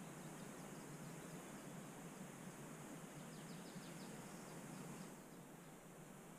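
Faint outdoor ambience with a small bird's short, high chirps, including a quick run of them about three and a half seconds in.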